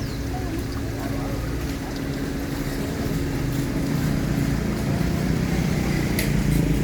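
An engine running steadily with a low hum, getting somewhat louder toward the end, with a few faint clicks over it.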